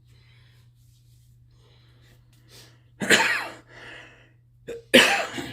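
Two loud sneezes from a person, about two seconds apart.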